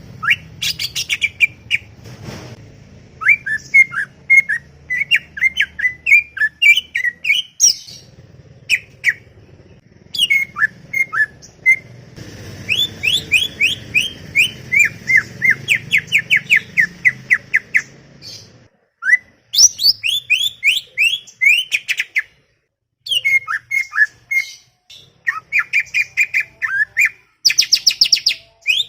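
Cucak ijo (green leafbird) singing a chattering song of quick sweeping chirps, delivered in fast runs with short breaks between phrases.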